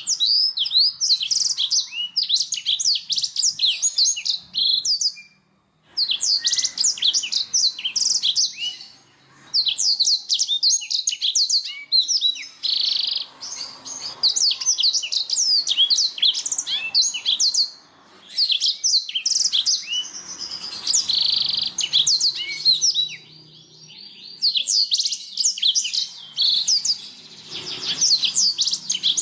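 Canary singing: long phrases of rapid, high chirps and trills, broken by short pauses every few seconds.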